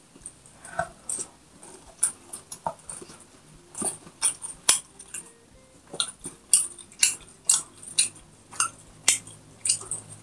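Chewing and wet lip-smacking while eating rice and pork by hand: an irregular string of short sharp clicks, several a second.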